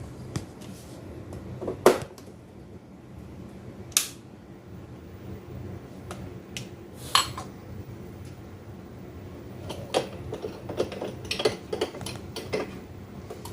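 Scattered clinks and knocks of cups, dishes and cutlery being handled, a few sharp single strikes and then a quicker run of small clatters near the end, over a faint steady low hum.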